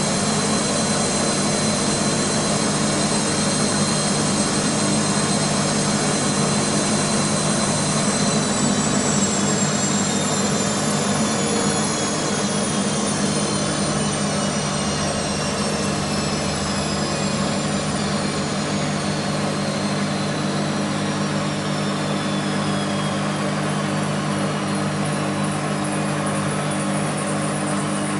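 BEKO WMB 51441 washing machine spinning its drum at high speed, with a steady motor whine over a low hum. About eight seconds in, the whine starts falling steadily in pitch as the spin winds down.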